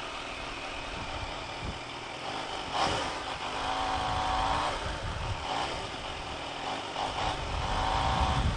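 2019 Kawasaki Ninja H2's supercharged inline-four engine running at low speed while the bike rolls slowly, with wind and road noise. A faint steady whine comes in twice, about three and a half seconds in and again near the end.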